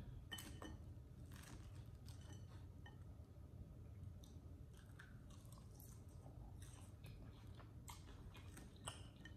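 A person quietly chewing a mouthful of chili cheese fries: faint wet mouth clicks scattered throughout, one a little louder near the end.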